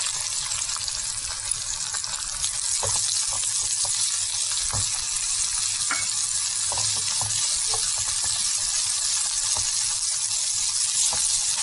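Chopped vegetables frying in hot oil in a pan: a steady sizzle, with scattered light taps and scrapes of a silicone spatula stirring them.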